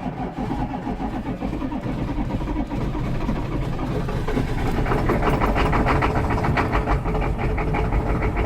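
GM 6.5-litre V8 diesel cranking on the starter in a cold start without the block heater, after the glow plugs have been cycled. About five seconds in it catches and runs rough with a diesel clatter.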